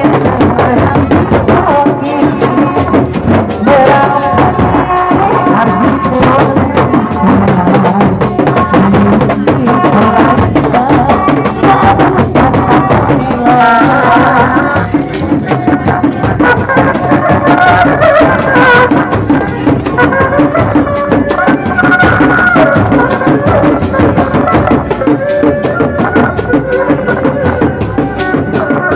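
Loud traditional Sundanese folk music from a performing troupe: hand drums beating a fast, busy rhythm under a wavering melody line, playing without a break.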